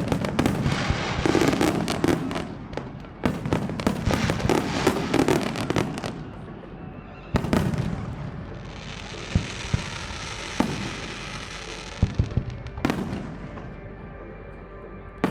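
Fireworks display: rapid barrages of shell bursts and crackling for the first six seconds, then a single bang, a few seconds of fizzing crackle, and scattered sharp bangs near the end.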